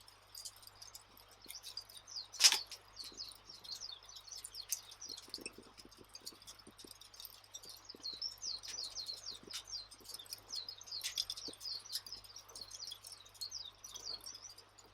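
Wood fire crackling, a dense, irregular patter of small pops and high ticks, with one sharp, much louder pop about two and a half seconds in.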